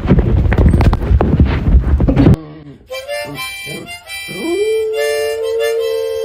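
About two seconds of loud, rough, crackling noise cut off abruptly. Then a dog howls: a few short rising yelps, then one long, held howl that slides up at the start.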